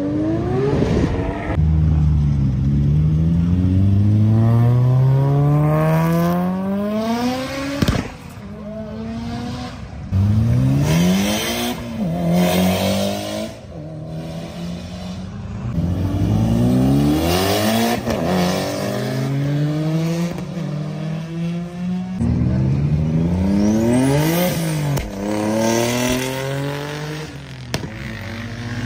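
Tuned performance car engine accelerating hard, its pitch climbing steeply and dropping back at each gear change, over several pulls in a row.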